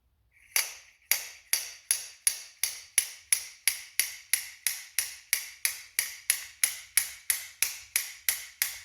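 Slide hammer slammed against its stop over and over, a steady run of sharp ringing metallic clanks, about three a second, starting about half a second in. It is pulling a seized brass emulsion tube out of the stem of a John Deere DLTX-24 carburetor by a screw threaded into the tube.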